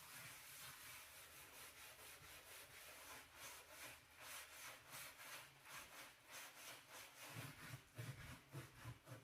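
Brush scrubbing a dirty stove in quick back-and-forth strokes, about three to four a second, with a few soft low bumps near the end.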